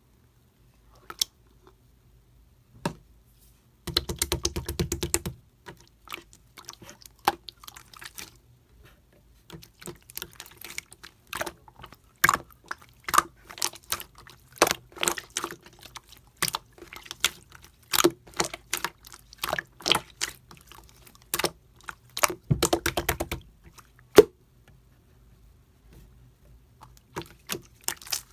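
Pink and clear mixed slime being pressed and squished by hand, giving irregular wet clicks and pops. There are two quick runs of rapid crackling pops, about four seconds in and again around twenty-three seconds.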